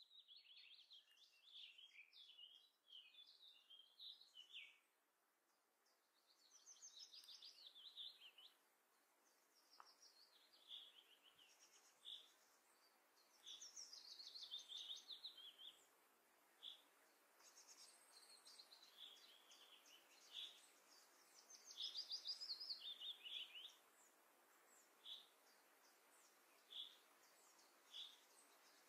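Faint songbirds singing in bursts of quick, high chirping phrases. Near the end these thin out to single short chirps every second or two.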